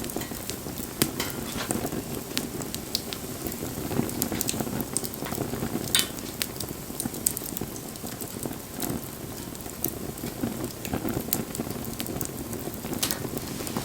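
Wood bonfire burning: irregular sharp crackles and pops over a steady low rush of flame.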